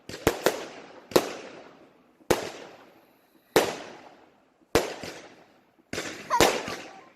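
Aerial fireworks going off in a series of loud sharp bangs, roughly one a second, each trailing off in a fading echo. Several bangs come in quick succession about six seconds in.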